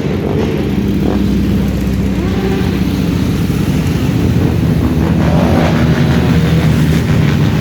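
Motorcycle engines running steadily as a group of bikes rides along, with slight rises and falls in engine pitch.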